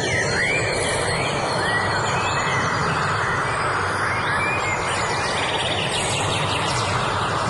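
Birds chirping and whistling in short rising and falling notes over a steady, loud rushing background noise.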